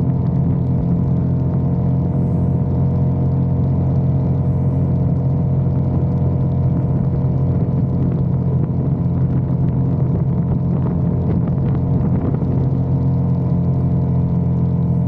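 Motorcycle engine running at a steady speed on the road, holding one even note, with no shifts or revving.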